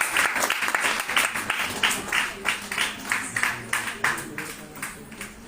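Audience applause: dense clapping that thins into separate claps and dies away toward the end.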